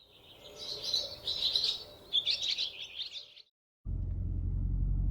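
Small birds chirping and twittering for about three and a half seconds, then a short silence. Near the end a steady low rumble cuts in.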